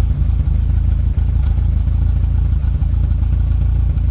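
Rover 25 GTI's 1.8-litre VVC engine idling with an uneven beat and an occasional stumble: the sign of a persistent misfire that injector cleaner has not cured.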